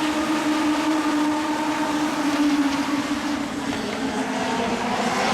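Legends race cars' Yamaha motorcycle engines running hard around the track as a steady, high-revving drone. The pitch and loudness dip a little midway, then climb again as the cars accelerate.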